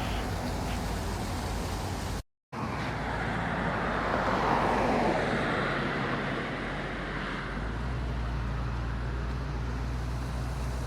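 A car drives past on the road, swelling to its loudest about four to five seconds in and then fading, over a steady rush of falling water. From about seven and a half seconds a low engine rumble holds steady. The sound cuts out completely for a moment about two seconds in.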